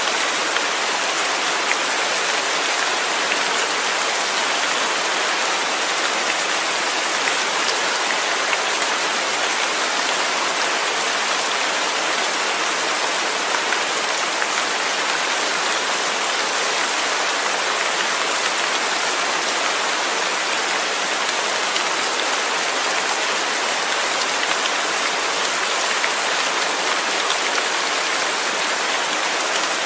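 Steady rainfall, an even hiss of drops with faint scattered patters, no thunder.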